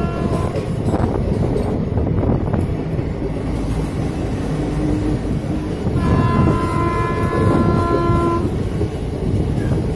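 Train running with a steady rumble, its horn sounding in a held blast of about two and a half seconds starting around six seconds in; a previous blast just fades out at the very start.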